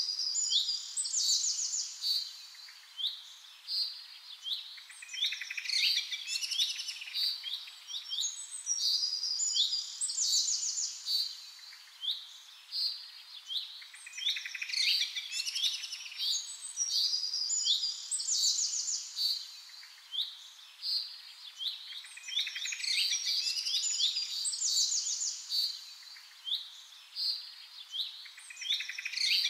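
Small birds chirping and twittering, quick high calls coming in runs every couple of seconds.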